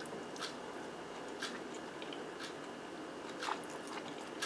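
Close-miked chewing of a mouthful of baked zucchini with ground turkey and cheese: soft wet mouth clicks about once a second over a faint hiss.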